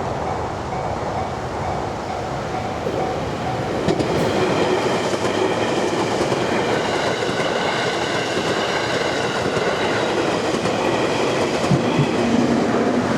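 A train passing a Japanese level crossing, louder from about four seconds in, with a whine of several steady high tones through the middle of its pass. The crossing's warning bell rings alongside.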